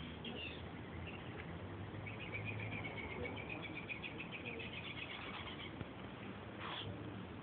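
A small bird twittering: a fast run of high chirps lasting a few seconds, then one short chirp near the end, over a steady low hum.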